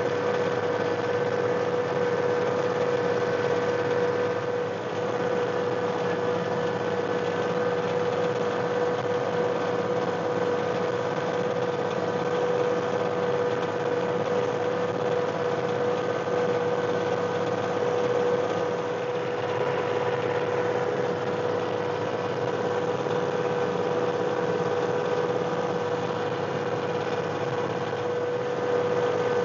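John Deere 1025R compact tractor's three-cylinder diesel engine running steadily at an even pitch during rear-blade snow clearing.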